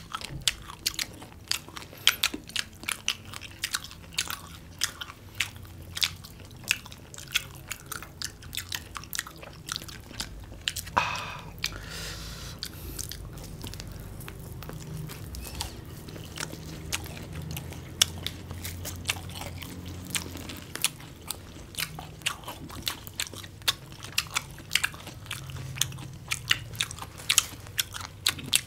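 Two people biting and chewing crispy batter-fried chicken and onion, with many sharp crunches every second, close to the microphone.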